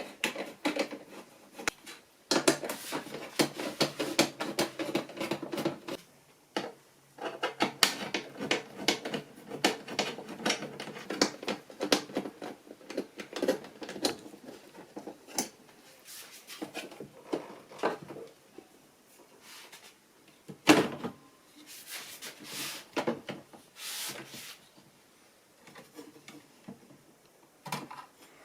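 Plastic and metal handling noises as the front control panel of an AEG Lavamat washing machine is unclipped and unscrewed: a long run of irregular clicks, rattles and knocks, with one sharp, loud knock about two-thirds of the way through.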